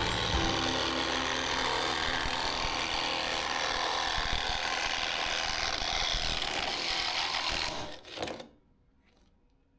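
Power saw cutting steadily, then stopping about eight seconds in.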